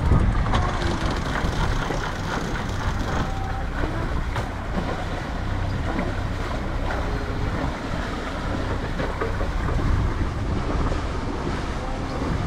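Steady wind buffeting the microphone on a sailboat under way, over the rush of the boat moving through the water.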